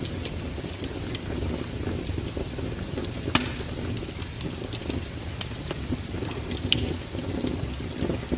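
Wood fire crackling in a fireplace: scattered sharp pops and snaps, one louder pop about three seconds in, over a steady low rumble.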